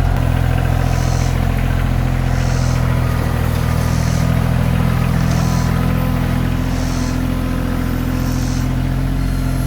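Kioti CK2610 compact tractor's diesel engine running steadily throughout.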